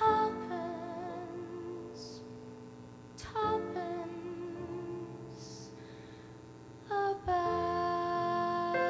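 A woman sings long held notes with vibrato, without clear words, over piano chords struck three times. These are the closing bars of a slow ballad.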